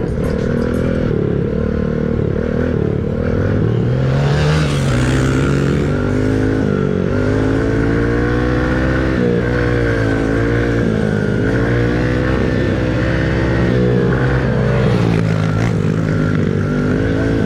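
Coolster dirt bike engine being ridden, its pitch rising and falling over and over as the throttle is opened and eased off, with a rushing hiss about four seconds in.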